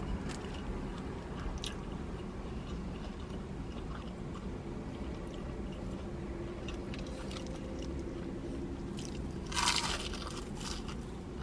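Close-miked chewing and biting of fast food, with small wet clicks of the mouth and one louder crunchy burst near the end, over a steady low rumble.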